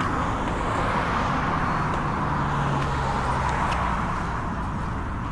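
Jet airliner engines making a steady rushing noise, with a low hum that swells in the middle.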